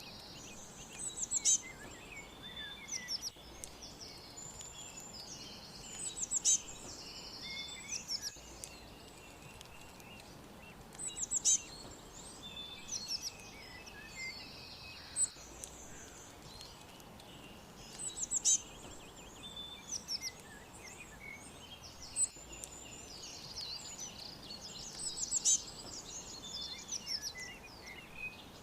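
Several birds chirping and trilling over a faint steady background hiss, with a loud, sharp chirp standing out every four or five seconds.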